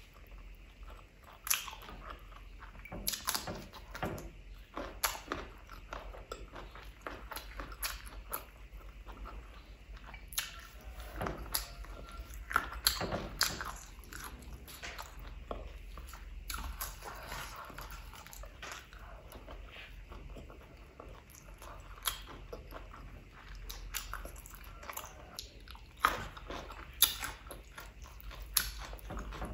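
Eating sounds: wet chewing and lip-smacking with irregular sharp crunching bites, as chicken curry and rice are eaten by hand.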